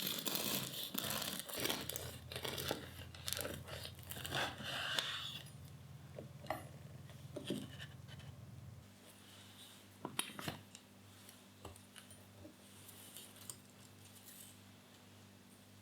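Kitchen handling sounds: dense rustling, crinkling and tearing for about the first five seconds, then scattered light clicks and taps over a low steady hum.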